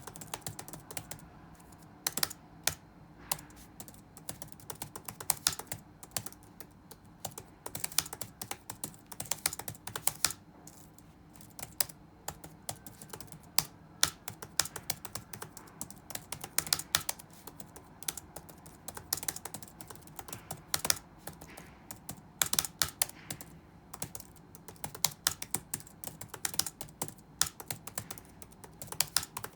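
Computer keyboard typing in irregular bursts of keystrokes with short pauses, over a faint steady background hum.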